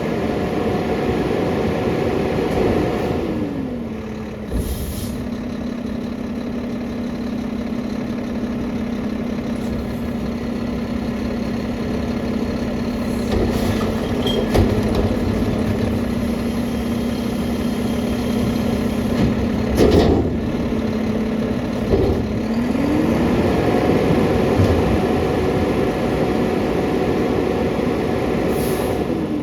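Mack LR garbage truck's diesel engine sped up to drive the McNeilus packer hydraulics during a packing cycle, dropping back to a steady idle about four seconds in. It speeds up again for another packing cycle a little after twenty seconds and settles near the end, with a few clunks and short air hisses along the way.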